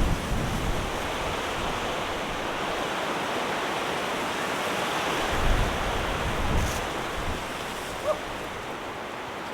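Strong wind blowing steadily, with low rumbling buffets of wind on the microphone about halfway through.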